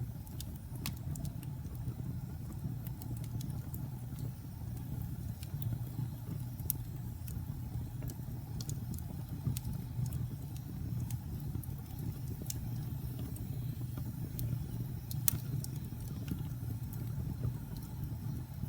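Fire crackling in a fireplace: irregular sharp pops and snaps over a steady low rumble of the flames, with one louder pop about fifteen seconds in.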